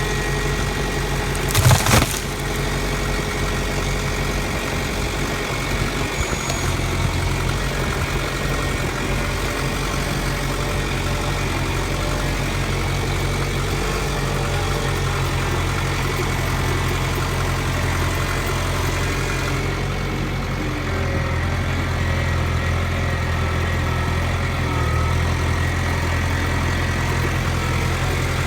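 An engine idling steadily, with one sharp, loud crack or thump about two seconds in.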